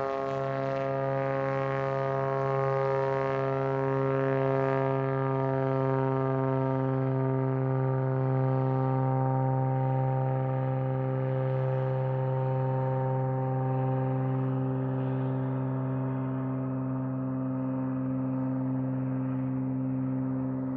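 Cessna 180A Skywagon's Continental O-470 six-cylinder engine and propeller at takeoff power, a steady droning note that holds its pitch, its higher tones slowly fading toward the end.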